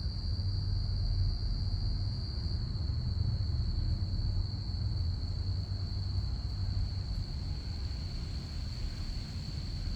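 Low, steady rumble of an aircraft passing at a distance, with crickets chirring in one continuous high trill over it.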